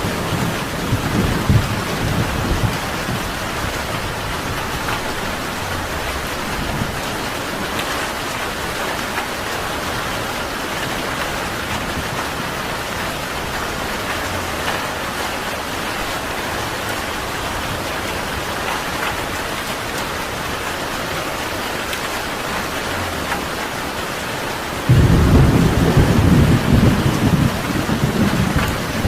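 Steady rain falling, with thunder: a low rumble fades out in the first few seconds, and a loud rumble of thunder breaks in suddenly near the end.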